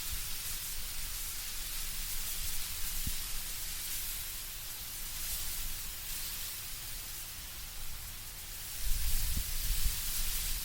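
Wind moving through autumn trees, leaves rustling steadily overhead, with a low gusting rumble that grows stronger near the end.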